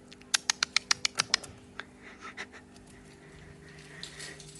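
A fast run of about nine sharp taps in a little over a second, followed by a few scattered fainter ticks.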